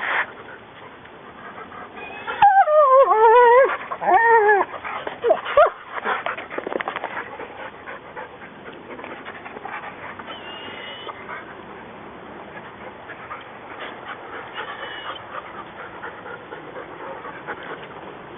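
Wolfdog whining excitedly in a wavering, up-and-down series of calls lasting about two seconds, a couple of seconds in, followed by quieter scattered sounds of the animal moving about.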